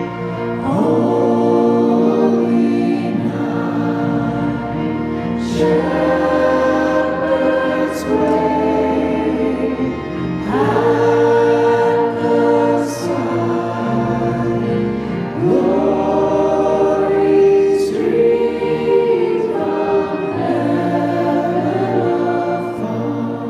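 Choir singing a hymn with instrumental accompaniment, in phrases a few seconds long over a sustained low bass.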